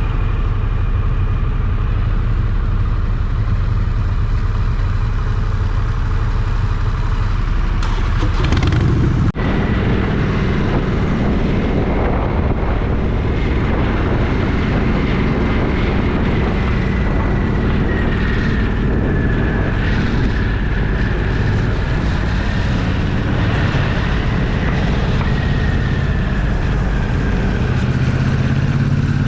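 Motorcycle engine running with road and wind noise, heard from a camera mounted on the bike. About nine seconds in the sound cuts out for an instant and then comes back fuller, with a faint whine that slowly drops in pitch.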